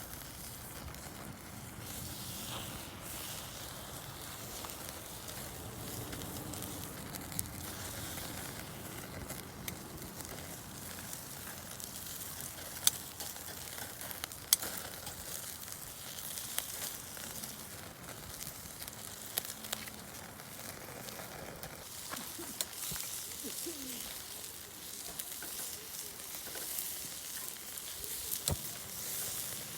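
Steady sizzling over a camp fire, with scattered sharp pops and crackles; two louder pops come about halfway through.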